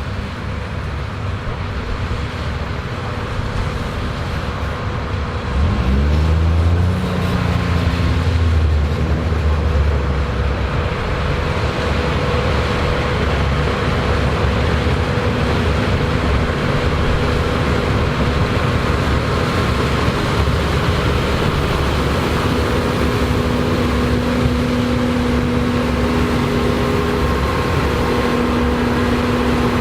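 Combine harvester running while harvesting corn, with a steady heavy machine drone. About six seconds in the engine speeds up with a rising pitch and the sound grows louder, then it holds steady with a constant hum.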